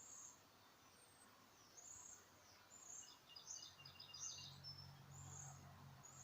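Faint birdsong: a series of short, high chirps with a quick rattling trill a little past the middle.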